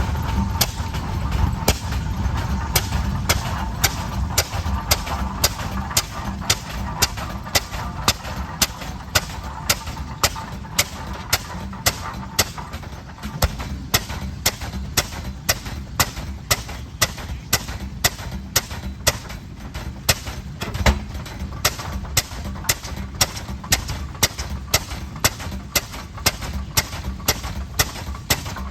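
Slow-turning antique tractor engine running, its exhaust giving sharp, evenly spaced bangs about two to three times a second over a low rumble.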